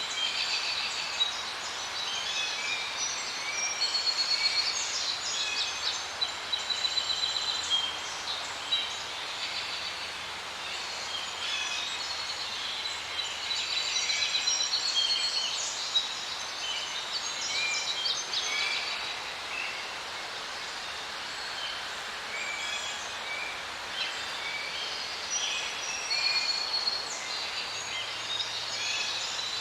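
Many small birds chirping and singing together, a busy chorus of short, high notes.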